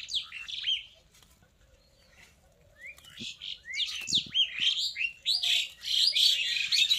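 Birds chirping in quick rising and falling notes: a short flurry at the start, then a longer, denser run of chirps from about halfway to the end. A couple of soft low thuds sound in the middle.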